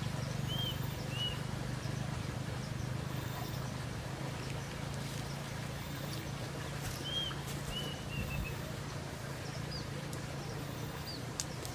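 A few short, high bird chirps, one about half a second in, another a little after a second, and a short run around seven to eight seconds in, over a steady low hum.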